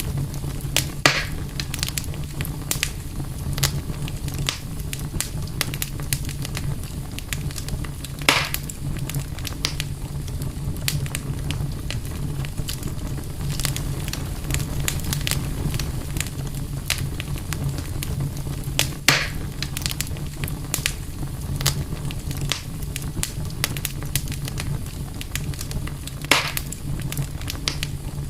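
Campfire burning with constant scattered crackling and a few louder pops, over a steady low rumble.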